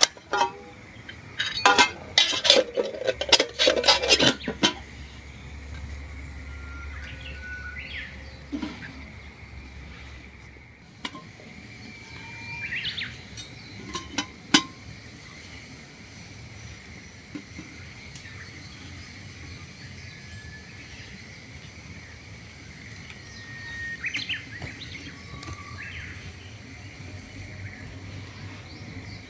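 A quick run of metal and glass clinks from camp coffee gear being handled, a couple of seconds in, then scattered short bird chirps over steady outdoor ambience.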